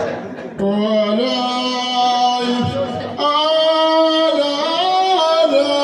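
A man's solo voice singing two long, held notes in Amazigh Ahwash style, unaccompanied by drums. The first note starts about half a second in, and the second starts about three seconds in with small steps in pitch.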